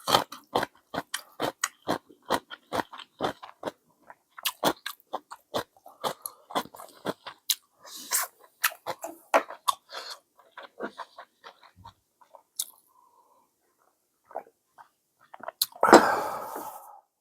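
A person chewing and biting ramen noodles close to the microphone, a quick run of short wet crunchy mouth noises that slows and stops about eleven seconds in. Near the end comes one loud burst of breath, about a second long.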